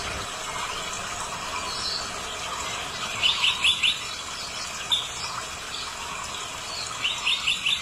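A bird calling: a quick run of four or five sharp, high chirps about three seconds in, and another run near the end, over a steady background hiss.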